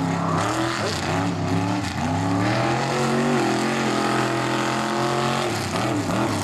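Mega truck engine revving hard under load, its pitch rising and falling several times, holding high for about two seconds in the middle and dipping briefly near the end.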